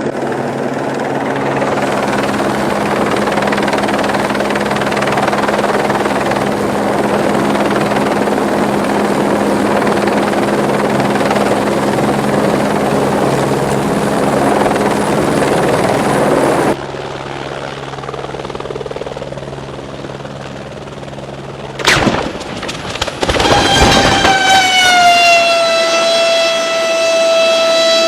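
Helicopter running steadily, a constant rush with a low hum underneath. About seventeen seconds in this drops away abruptly; some five seconds later come a sharp crash and a short cluster of impacts, then a loud high tone that slides down slightly and holds steady.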